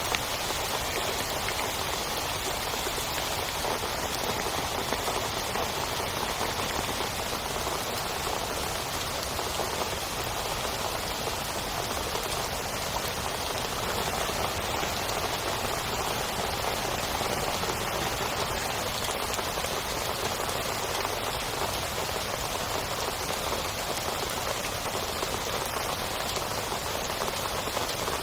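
Heavy rain falling steadily, an even unbroken hiss of drops with no thunder or other distinct sounds.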